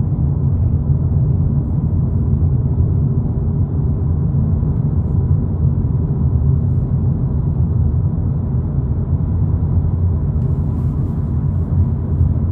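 Steady low drone of a 2022 VW Polo GTI cruising at road speed, heard from inside the cabin: tyre, road and engine noise, with no change in pitch or level.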